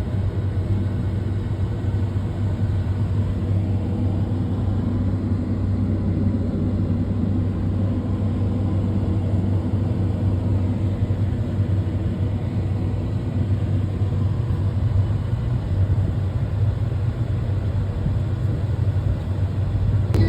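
Fendt tractor's diesel engine running steadily at a constant speed, a low, even hum.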